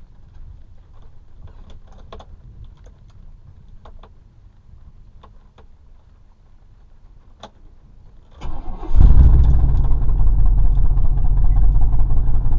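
Car engine cranked and started about eight and a half seconds in, then running loudly and steadily. Before it, a faint low rumble with a few light clicks.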